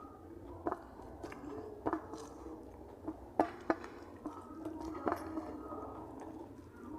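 A person chewing food close to the microphone, with about five sharp clicks spread through.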